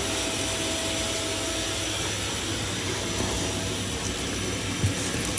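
A steady motor drone with a low hum and a faint whine that fades out about halfway through.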